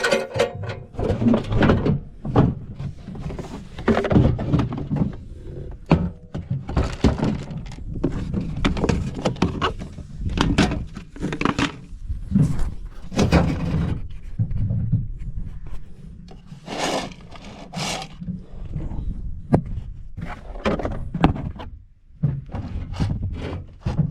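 Irregular thunks, knocks and scrapes of corn planter seed hoppers and their lids being pulled off and handled.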